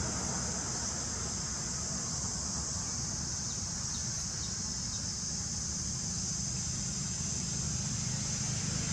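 Steady high-pitched drone of an insect chorus over a low background rumble, with a few faint short chirps near the middle.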